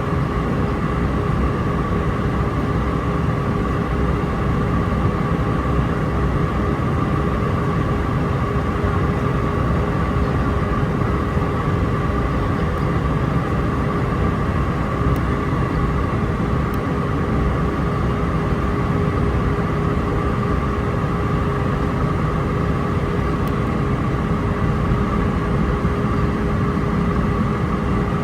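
Steady cabin noise of an Airbus A319-131 airliner in flight on approach: a deep rumble of airflow and its IAE V2500 turbofan engines, with a few steady hum tones over it.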